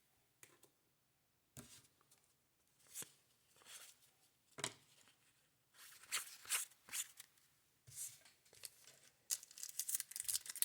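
Baseball cards being handled and flipped through by hand: faint, short scrapes and flicks of card stock sliding over card stock, irregular at about one a second and busier near the end.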